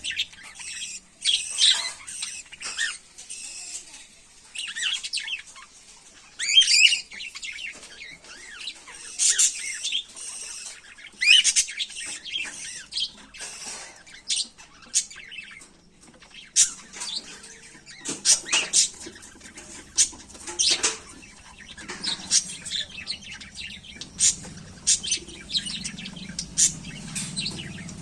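Cockatiels chirping and calling in short, irregular bursts, with sharper clipped calls in the second half.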